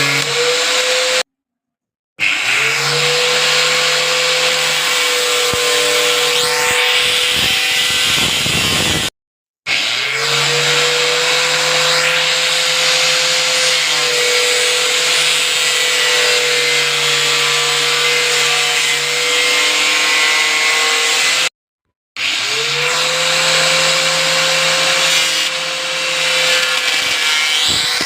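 Angle grinder running at a steady high whine while its disc cuts into a toy phone with a harsh grinding hiss. The sound cuts off dead three times and each time comes back with the grinder spinning up, its pitch rising.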